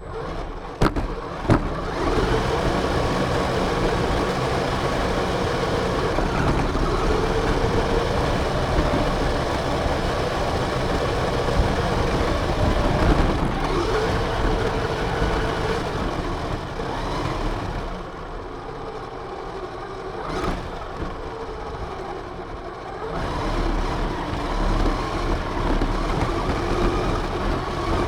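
Radio-controlled car driving, heard from a camera mounted on it. There are a couple of knocks at the start, then a continuous drivetrain whine that wavers in pitch with speed over a rush of tyre and wind noise. The whine drops back about eighteen seconds in and picks up again a few seconds later.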